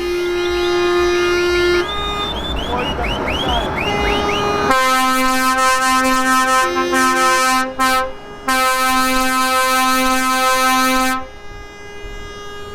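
Truck air horns blaring in long held blasts on two or three different notes, with short sliding pitch glides in between. The horns stop sharply about 11 seconds in.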